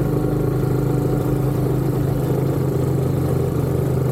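Dirt bike engine running at a steady pitch, without revving up or down.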